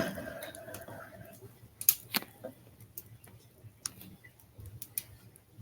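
Wood stove being worked: a squeaky metal hinge squeal fading out in the first second, then a few sharp metallic clinks and knocks, the loudest about two seconds in. The stove's blower motor hums low and steady underneath.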